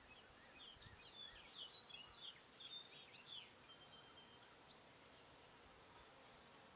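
Faint songbird twittering: a quick run of short, slurred chirps for about three seconds, then a single brief held note.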